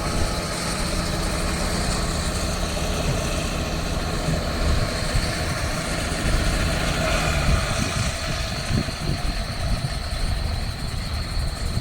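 An engine running steadily with a low, continuous rumble.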